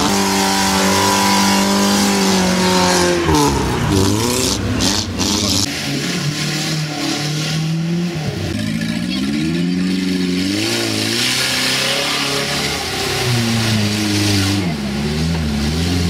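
Lada Niva engine revving hard under load in mud, its pitch climbing and dropping several times as the driver works the throttle. The engine note changes abruptly about six seconds in.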